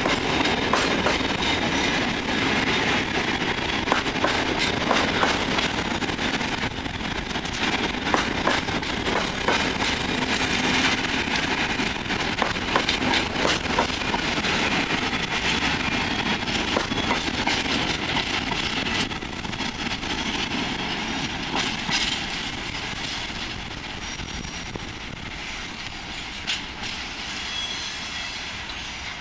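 Long freight train of covered sliding-wall wagons rolling slowly past, its wheels clicking over the rail joints over a steady rumble. The sound eases somewhat about two-thirds of the way through, and a few faint high wheel squeals come near the end.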